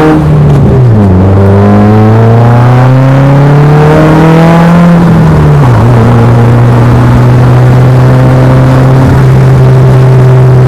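2017 Subaru WRX's turbocharged flat-four, fitted with a Grimspeed high-flow catted downpipe, accelerating hard. Its pitch climbs, falls sharply at an upshift about a second in, climbs again and falls at a second upshift near six seconds, then holds steady.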